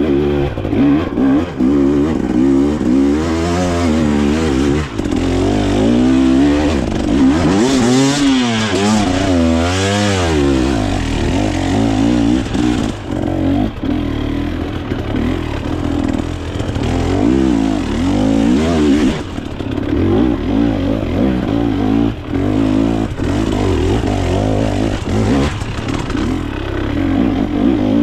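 Off-road dirt bike engine being ridden hard, revving up and falling back again and again as the rider works the throttle and gears, with a run of quick high revs about eight to ten seconds in.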